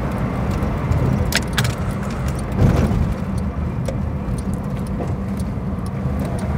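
In-cabin running and road noise of a 1949 Armstrong Siddeley Lancaster's six-cylinder engine on the move, a steady low rumble, with a couple of light jingling clicks about a second and a half in. The engine is thought to be missing on a cylinder.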